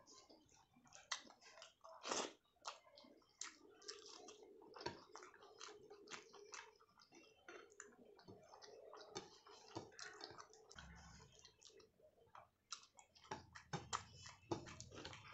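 Close-miked eating: chewing and wet mouth sounds, a quick run of small crisp clicks, with one louder moment about two seconds in.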